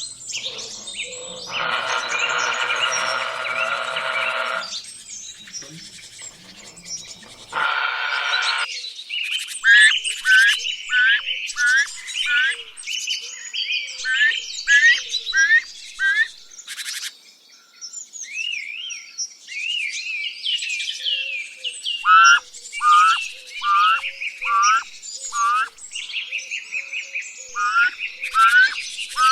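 Birds calling. A harsh, buzzy call fills the first few seconds and returns briefly near eight seconds. After that comes a long run of short, downward-slurred whistled notes repeated about twice a second, with higher twittering over them.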